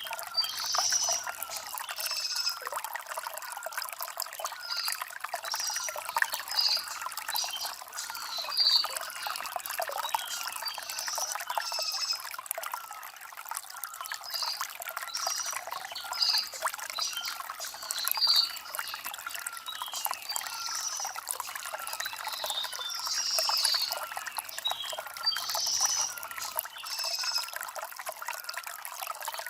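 A shallow stream trickling and gurgling steadily over river stones, with short high-pitched notes scattered throughout.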